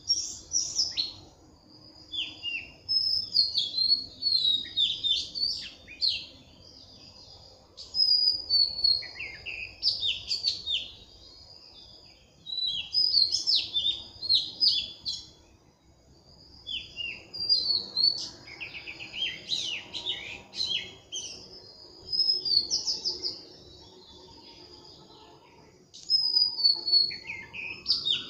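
Birds chirping and singing: phrases of high whistled notes and quick runs of chirps come every few seconds, with short pauses between them.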